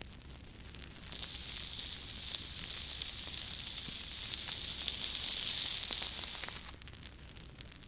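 Sizzling hiss of a turkey roasting in a fireplace fire, over light crackles of the flames. The sizzle comes in about a second in and cuts off about a second before the end.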